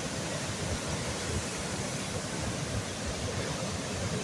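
Steady rushing of a river in flood, the floodwater running high and fast.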